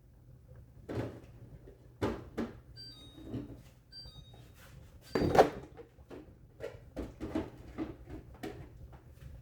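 Kitchen handling noises: a string of knocks and clatters like cupboard doors and containers being moved and set down, the loudest about five seconds in. Near three and four seconds in come two brief high ringing clinks.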